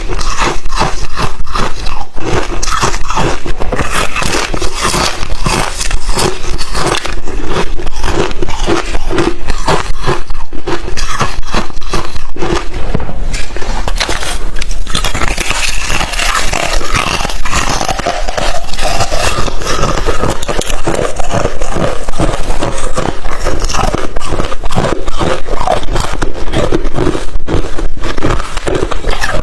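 Close-up crunching of crushed thin ice chips being bitten and chewed, a dense, continuous crackle of many small cracks.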